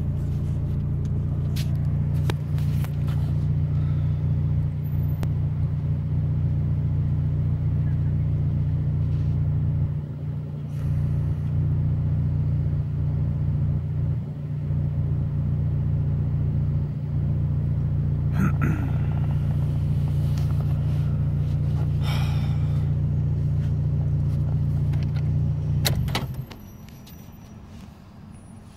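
Car engine idling, heard from inside the cabin as a steady low hum, with a few knocks and rustles; it shuts off about 26 seconds in, leaving a much quieter cabin.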